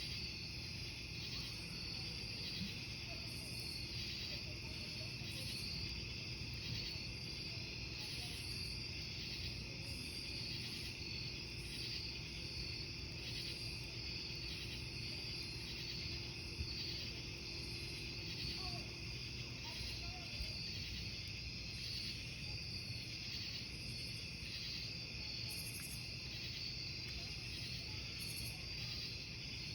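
Crickets chirping in a steady, dense chorus over the low crackle of a wood campfire, with a few faint pops.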